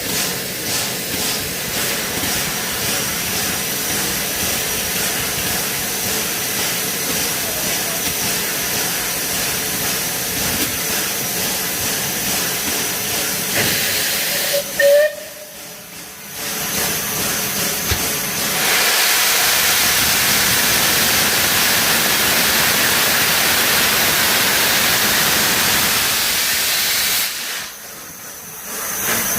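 Steam locomotive with steam escaping in a steady loud hiss, growing stronger after a short break about halfway through.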